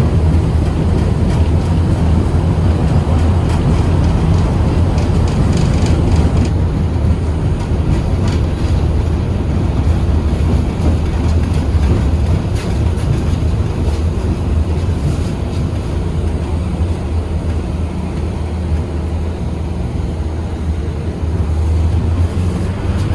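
KTM-8KM tram heard from on board while running between stops: a steady low rumble of motors and wheels on the rails. The level eases slightly past the middle.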